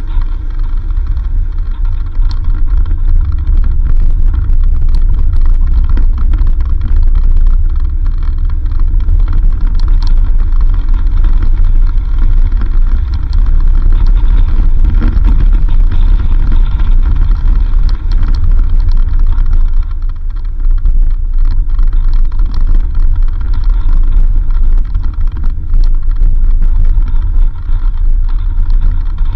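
4x4 vehicle driving along a dirt road: a steady low engine-and-road rumble with many small knocks and rattles.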